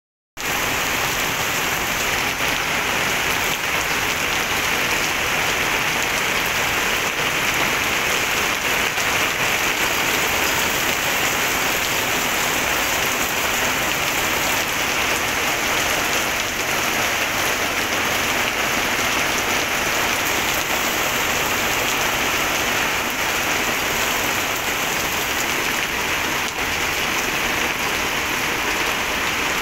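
Heavy rain pouring down onto a paved street and sidewalk: a dense, steady hiss of downpour with no let-up.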